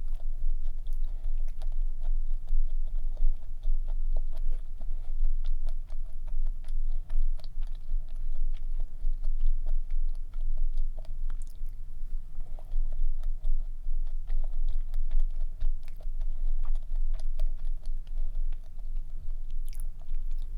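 Close-miked chewing of stollen, a dense fruit bread, with many small mouth clicks all through.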